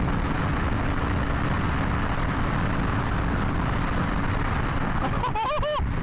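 2020 BMW S1000RR's inline-four engine running at speed under heavy wind rush on a helmet-mounted mic. A steady engine tone fades out about four and a half seconds in.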